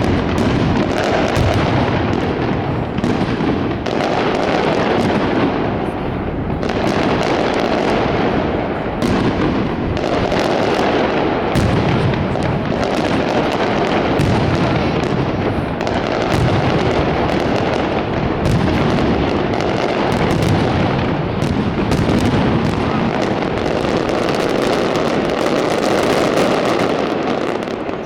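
Aerial fireworks display going off without pause: a dense, continuous run of shell bursts, bangs and crackling, loud throughout.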